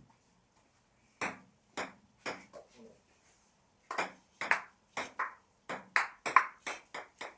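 A table tennis ball being hit back and forth: sharp clicks of the ball off the bats and table. There are a few strokes, a short pause, then a quicker rally of about two to three clicks a second.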